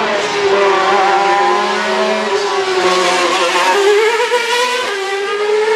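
Sauber Ferrari Formula One car's naturally aspirated 2.4-litre V8 running loud at high revs. Its pitch wavers up and down as the throttle changes, dipping about four seconds in and climbing again.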